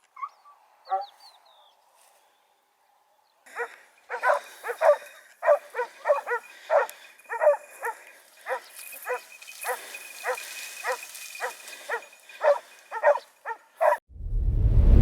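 Hunting dog barking in a steady run of about two barks a second, after a couple of short yips. About a second before the end it is cut off by a sudden loud low rumble.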